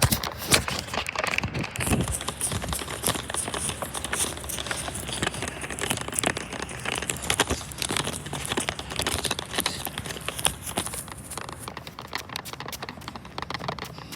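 Irregular footsteps with crunching and rustling handling noise on the recording device's microphone, as the person filming walks along.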